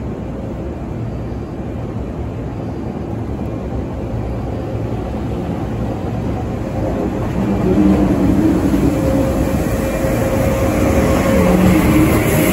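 485-series electric train pulling slowly along the platform and passing close by, a low rumble that grows louder as it nears, with a steady hum from about halfway through.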